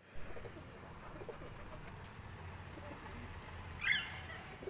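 Parrot calling: soft low calls early on, then one short, loud, higher-pitched call a little under four seconds in.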